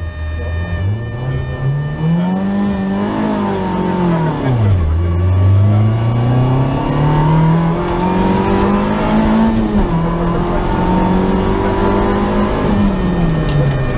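Peugeot 205 GTi rally car's four-cylinder engine heard from inside the cabin, accelerating hard. Its pitch climbs, drops sharply about five seconds in, then climbs again and holds high, with another dip near the end.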